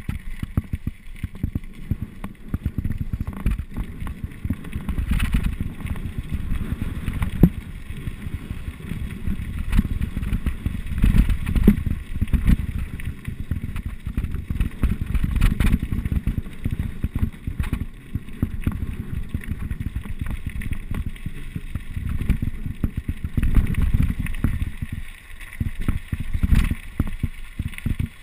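Downhill mountain bike ridden over rough trail, with wind buffeting the camera microphone and the bike rattling and knocking over bumps.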